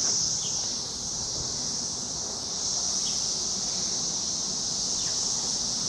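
A steady chorus of insects, such as crickets, singing: one continuous high buzz that does not let up.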